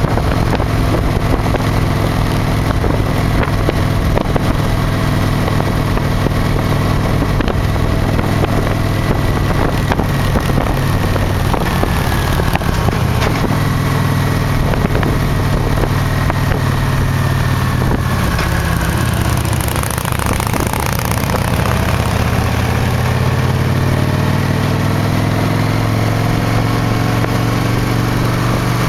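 Victory Vision motorcycle's V-twin engine running at road speed, with steady wind rush. The engine note eases off through the middle and climbs again near the end as the bike accelerates.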